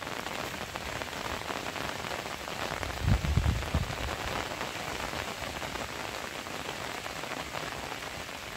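Steady rain falling on leaves and wet ground, an even hiss, with a brief low rumble about three seconds in.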